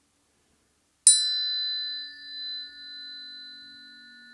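Planetary tuning fork struck once about a second in, then ringing with clear, steady high tones that slowly fade. A low steady hum comes in under it later.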